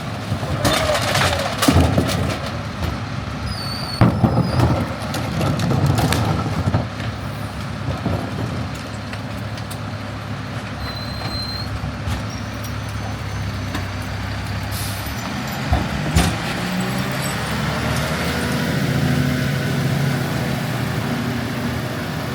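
Garbage truck's diesel engine running steadily, with several sharp clanks and knocks in the first few seconds and again later. The engine speeds up near the end.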